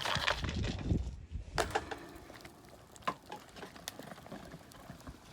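A few light clicks and taps of cooking utensils and ingredients against a cooking pot, after a low rumble in the first second.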